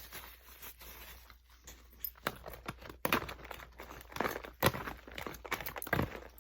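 Eating and food-handling noises close to the microphone: quiet at first, then irregular crunches, clicks and crinkles from about two seconds in, loudest a little past the middle.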